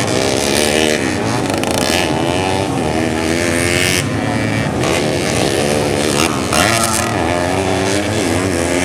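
Modified 130 cc underbone racing motorcycle engines revving hard on a dirt track. The engine pitch climbs and drops again and again as the throttle is worked.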